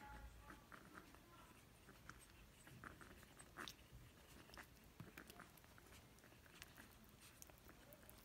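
Near silence with faint, irregular little clicks and scuffles of puppies moving about.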